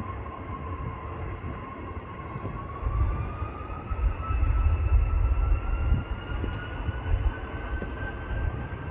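Four-engined Airbus A340's jet engines spooling up for a turn-and-burn takeoff: a whine that rises steadily in pitch over a deep rumble, which swells about three to seven seconds in.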